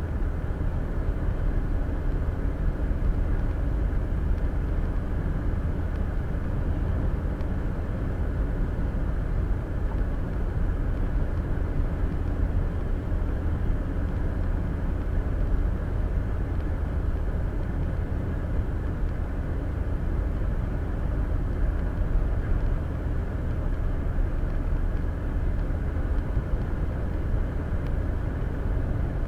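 Steady road and tyre rumble inside a car's cabin at highway speed, picked up by a windshield-mounted dash cam's microphone; deep and even throughout.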